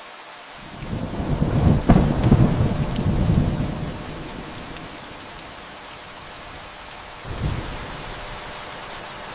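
Steady rain with a roll of thunder that builds about a second in, peaks with a sharp crack near two seconds and rumbles away over the next two seconds; a second, shorter rumble comes near the end.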